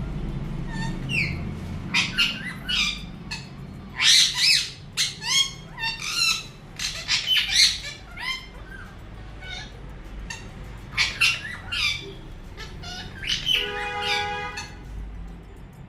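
Pet parrot squawking over and over in short, loud calls that come in clusters: an angry outburst. About two seconds before the end there is one steady held tone lasting about a second.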